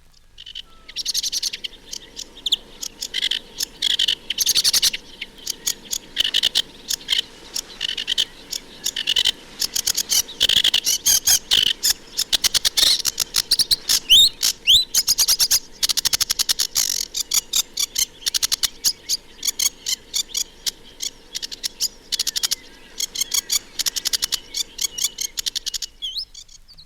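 Sedge warbler singing a long, varied song of rapid chattering phrases, full of musical and harsher notes. A few clear rising whistles come about halfway through.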